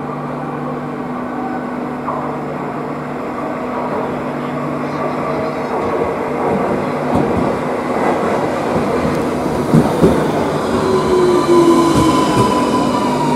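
Cercanías commuter electric train running through the station. A rumble grows louder, with knocks from the wheels. From a little past the middle a whine falls slowly in pitch, and high thin squealing tones join it near the end.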